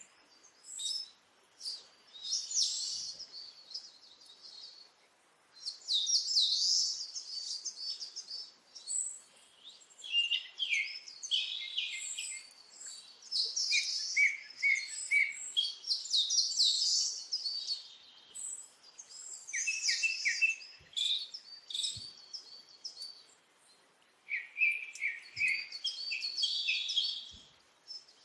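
Small cage birds chirping and chattering, high-pitched, in bursts of a few seconds with short pauses between.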